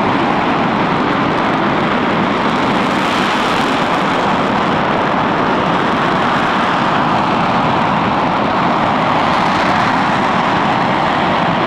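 RS-25 rocket engine test firing: a loud, steady rushing noise that holds without a break.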